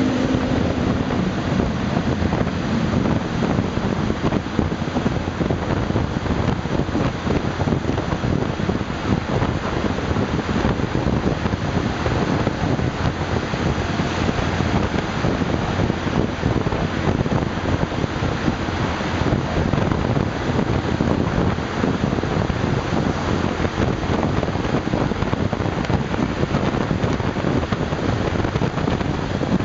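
Wind buffeting the microphone on a moving Honda Super Cub 110, with the scooter's small single-cylinder four-stroke engine running beneath the wind noise.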